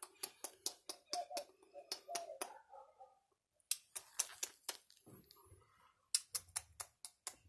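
Rapid sharp clicking, about five clicks a second, in three short runs with brief pauses between them.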